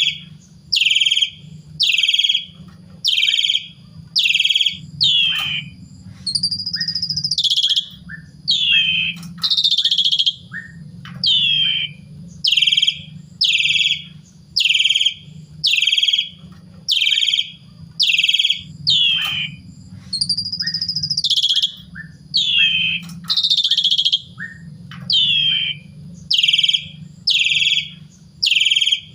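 Jalak suren (Asian pied starling) singing: a long run of loud, evenly repeated falling calls about every three-quarters of a second, broken now and then by longer whistled phrases and soft short chips.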